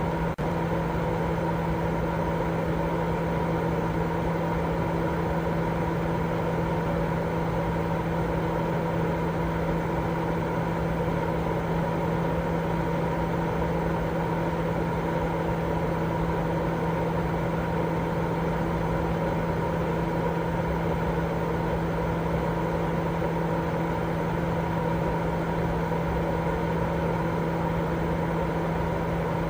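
Steady, unbroken white noise for lulling a baby to sleep, with a constant hum running through it and most of its weight in the low and middle range.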